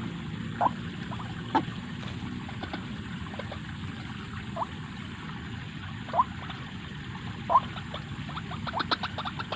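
White-breasted waterhen (ruak-ruak) calling: short, sharp rising notes every second or so, then a quick run of notes near the end, over a steady background hiss.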